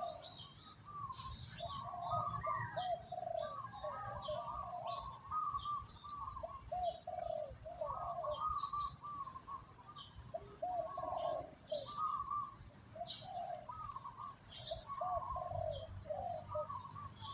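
Birds calling: many short, arched call notes overlapping and repeating throughout, with scattered higher chirps above them.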